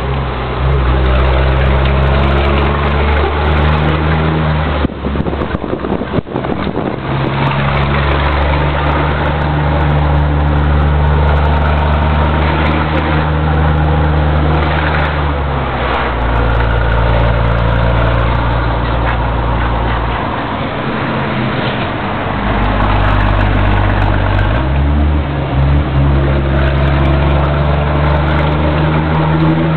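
Scania truck's diesel engine running loud and steady under load on an uphill climb. The engine note breaks off briefly about five seconds in, with a few knocks, and shifts in pitch again around twenty seconds and twenty-five seconds.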